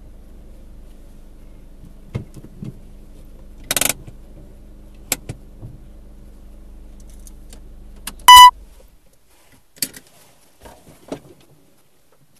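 Car engine idling, heard from inside the cabin, with scattered clicks and knocks and a short rattle. About eight seconds in comes a single loud electronic beep, and the engine hum stops just after it as the car is switched off. A few soft knocks follow.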